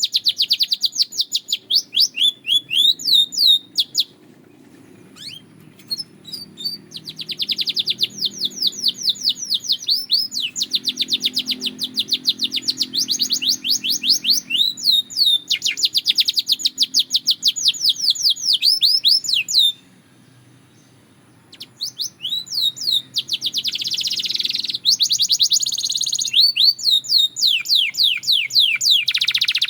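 Belgian canary singing: fast trills of quickly repeated, downward-sliding notes in phrases a few seconds long. The song breaks off briefly about 4 s in and again about 20 s in.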